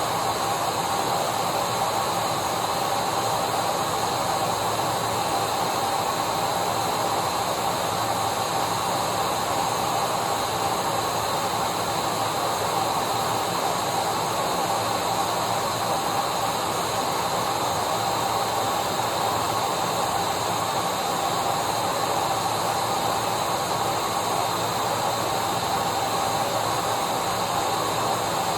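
Electric vacuum cleaner running steadily: a constant rushing hiss of motor and airflow with a steady whine, unchanging throughout.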